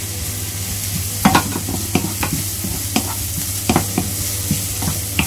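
Chopped onion, garlic and ginger sizzling in hot oil in a granite-coated wok while a wooden spoon stirs them, with irregular knocks and scrapes of the spoon against the pan.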